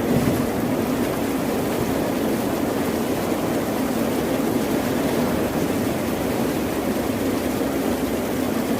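Steady, unbroken rushing water noise with a low rumble underneath, heaviest in the low-middle range; no separate wave crashes or thunderclaps stand out.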